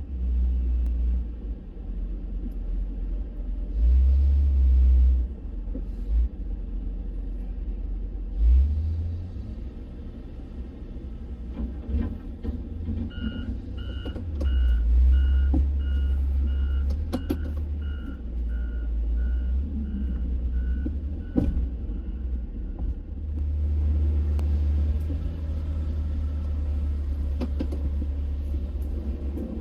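A vehicle's reversing alarm beeping at about two beeps a second for roughly eight seconds in the middle, over the low, steady rumble of an idling truck engine.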